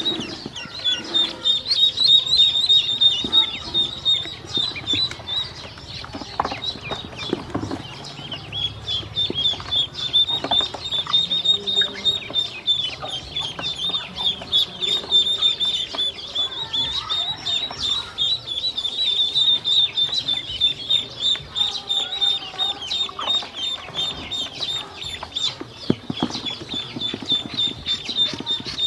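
Many ducklings peeping together: a continuous stream of high, quick, overlapping peeps.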